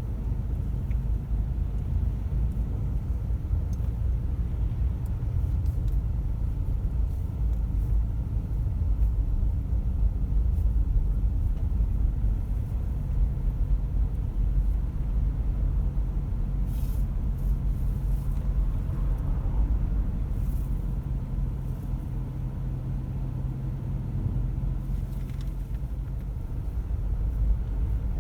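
Steady low rumble of a car driving, engine and tyre noise heard from inside the car, with a few faint clicks about two thirds of the way through.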